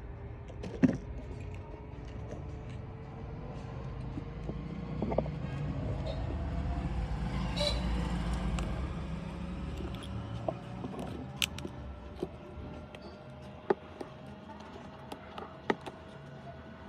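Scattered small sharp clicks and taps of repair tools and parts on a phone being taken apart. Under them, a low rumble swells and fades in the middle, and a faint tone rises slowly in pitch.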